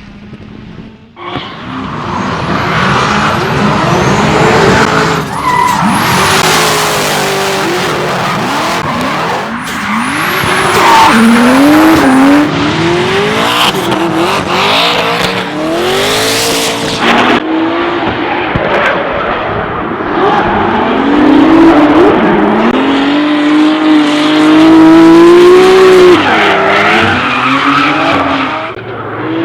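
Toyota Supra MK4's turbocharged 2JZ straight-six revving up and down through a drift, with tyres squealing, starting suddenly about a second in.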